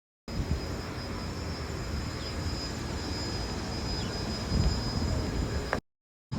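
Automatic car wash running around a car: a steady rushing roar with a faint, constant high whine, swelling slightly near the end.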